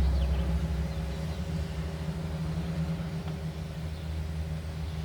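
A steady low mechanical hum, like an engine or motor running at a constant speed, a little louder in the first second and then easing slightly.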